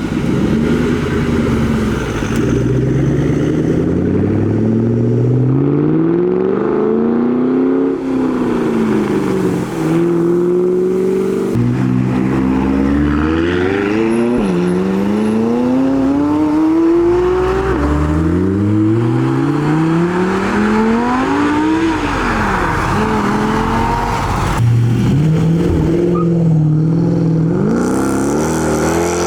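Performance car engines accelerating hard, one car after another: each engine revs up through the gears with its pitch climbing and dropping back at every shift.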